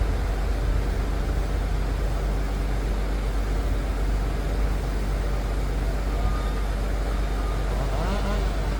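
Liebherr PR 746 crawler dozer's diesel engine running with a steady low drone.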